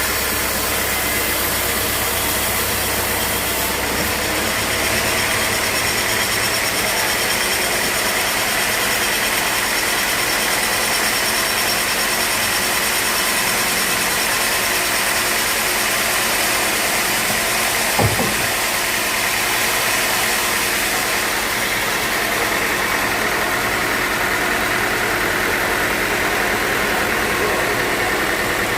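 Sawmill machinery running steadily, with a single sharp knock about eighteen seconds in.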